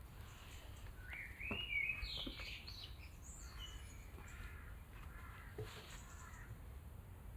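Wild birds calling: a few sliding, whistled notes about a second in, then a run of harsher, repeated calls around the middle, over a faint low background rumble.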